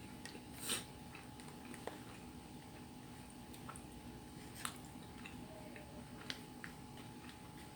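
A person chewing food close to the microphone, with a few short sharp clicks, the loudest under a second in, over a faint steady hum.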